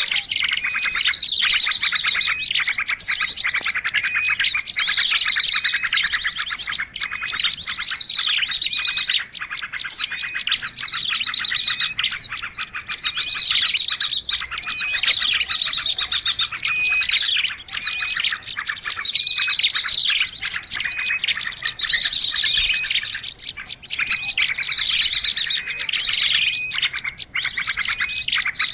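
Lure recording of small songbirds: dense, continuous high-pitched chirping and fast trilling, with short downward-sweeping notes that recur every couple of seconds.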